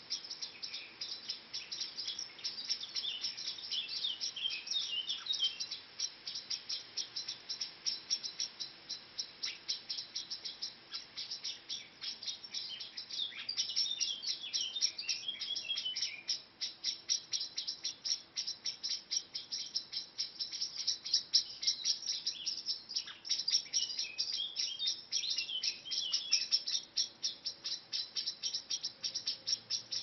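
Birds singing among garden trees: short warbling phrases come and go three times over a constant high, rapid chirping pulse of about four or five a second.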